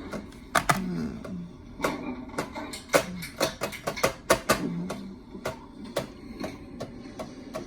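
Hampton Bay Landmark ceiling fan running on high speed and wobbling, with irregular sharp clicks and ticks, a few a second, over a low hum.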